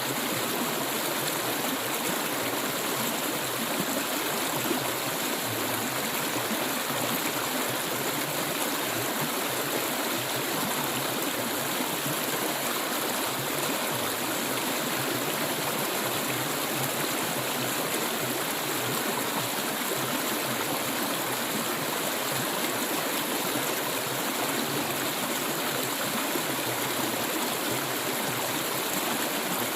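Clear stream water flowing steadily, an even, continuous rush of running water.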